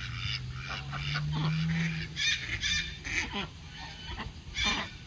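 Birds calling in a run of short, repeated calls, over a low steady hum that fades about two seconds in.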